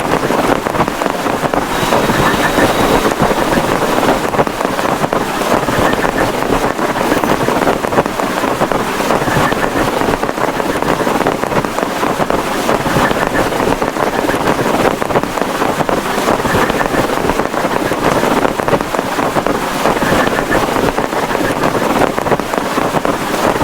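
Heavy rain drumming steadily on a plastic tarp.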